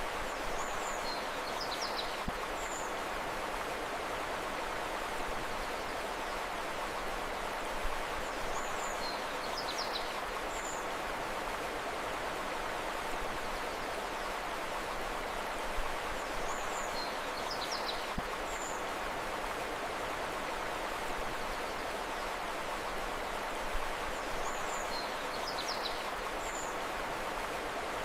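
Steady rushing flow of a river, with a short high bird call phrase of a few chirps repeating identically about every eight seconds, four times.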